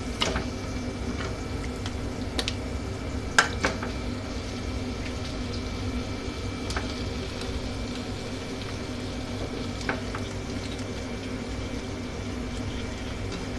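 Raw marinated chicken pieces sizzling as they are tipped into hot fried masala paste in a steel kadhai, over a steady low hum. A few sharp knocks of the wooden spatula and steel bowl against the pan, the loudest a double knock about three and a half seconds in and another about ten seconds in.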